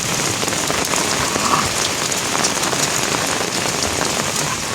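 Steady rain falling, with separate drops ticking close by.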